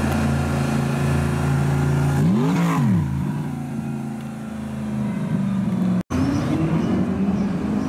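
Audi R8 sports car engine running at low revs as it rolls past, with one quick rev blip about two and a half seconds in. The sound cuts off abruptly about six seconds in, and another car's engine follows.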